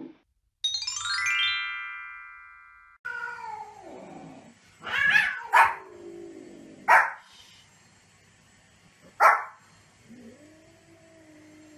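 A short cascade of falling electronic chime tones, a video transition sound effect, over the first three seconds. A Pomeranian then gives about four sharp, high barks over the next few seconds. A cat's falling meow comes before the barks and a drawn-out meow near the end.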